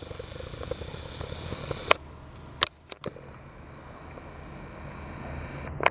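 Steady low background noise with a faint high steady tone that stops about two seconds in. A few sharp clicks follow, one around a brief dropout, and another near the end.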